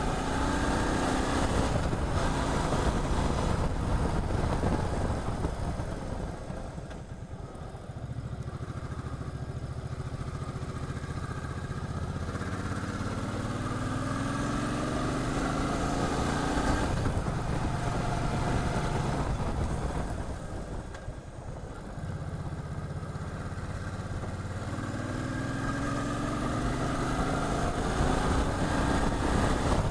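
V-twin cruiser motorcycle engine under way, with wind noise. The revs climb in long pulls, and the engine note drops away twice as the throttle is closed.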